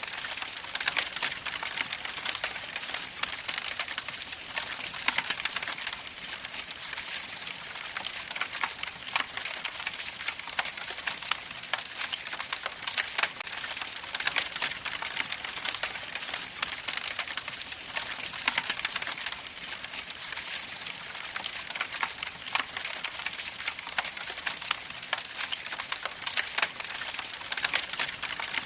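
Wood campfire crackling steadily: a dense stream of sharp pops and snaps over a soft hiss.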